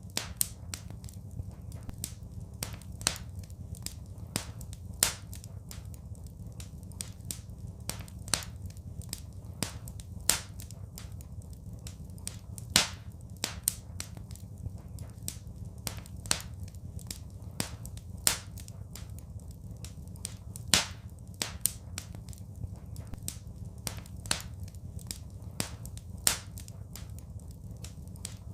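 Fireplace fire crackling: irregular sharp pops and snaps, a few much louder than the rest, over a steady low rumble.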